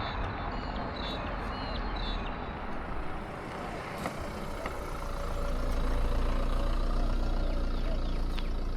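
A motor vehicle's engine running steadily, its low rumble growing louder about five or six seconds in.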